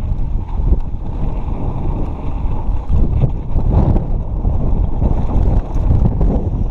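Wind buffeting the microphone over the rumble of a mountain bike rolling fast down a dirt trail, with scattered sharp clicks and rattles from the bike.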